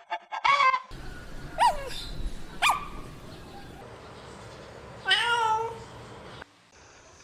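A cat meowing a few times in short calls, with a longer meow about five seconds in.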